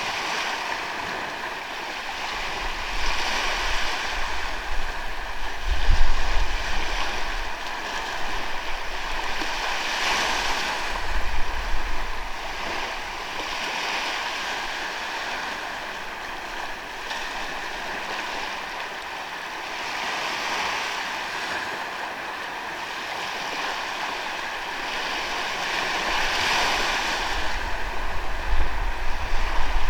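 Ocean waves washing onto a sandy beach, the surf swelling and easing every few seconds. Wind buffets the microphone with low rumbles at times, strongest about six and eleven seconds in and near the end.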